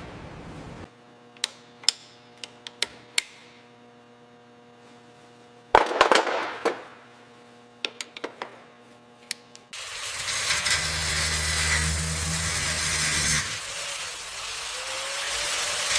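Scattered sharp clicks and knocks, with a louder hit about six seconds in, then from about ten seconds a loud steady hiss with a low rumble underneath, like a spray or blasting tool at work.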